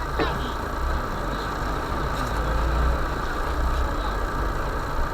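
UAZ Bukhanka van's engine running with a steady low rumble as it crawls along a rough forest track.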